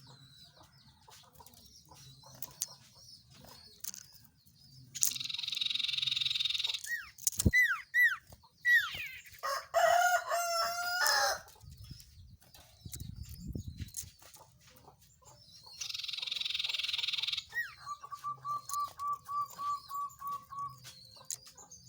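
Recorded songbird calls used as a bird lure: harsh hissing calls, a few falling whistled notes, and near the end a trill of about ten evenly repeated whistled notes. In the middle a rooster crows once.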